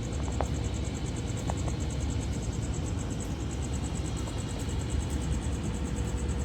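Steady low rumble of running engines and machinery during cargo loading at a port berth, with a faint constant hum over it and a couple of small clicks in the first two seconds.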